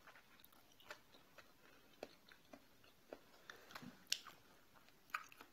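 Quiet chewing of a meal, with faint scattered clicks, the sharpest about four seconds in.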